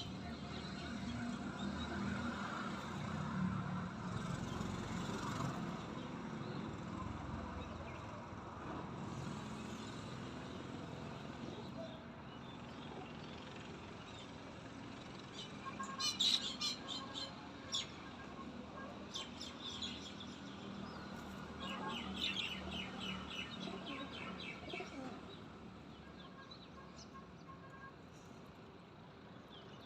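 Small birds chirping in short bursts while feeding, with some wing flapping, over a steady low background rumble.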